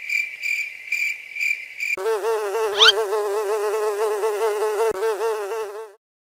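A high, pulsing trill for about two seconds, then a cartoon housefly buzzing in a steady, wavering drone, with a short rising whistle near the middle.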